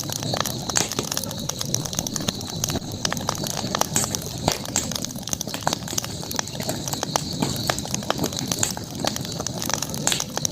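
Campfire crackling, with many irregular sharp pops and snaps over a steady high-pitched hiss.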